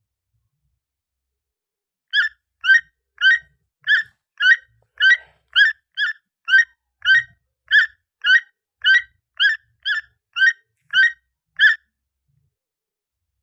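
An animal giving about eighteen short, evenly spaced calls, roughly two a second, which stop suddenly after about ten seconds.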